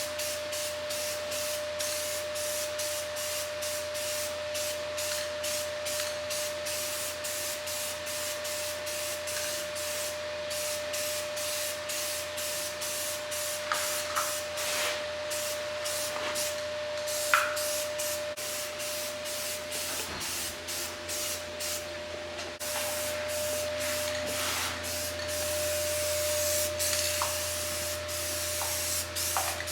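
Aerosol spray-paint can hissing in short repeated bursts, about two or three a second, as red paint is misted onto a truck's body panel; from about three-quarters through, the spraying turns into longer, steadier passes. A steady hum runs underneath.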